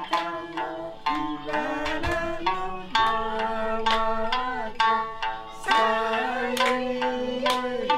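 Okinawan sanshin (three-stringed plucked lute) playing a folk melody in sharp plucked notes, with a held singing line that slides down at the end of each phrase.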